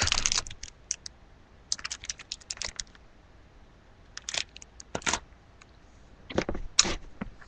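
Scattered light clicks and rustles in irregular clusters: an object or its packaging being handled close to the microphone.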